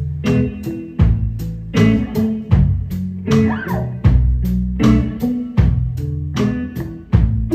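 Instrumental band music: guitar over bass and drums at a steady beat, with no singing.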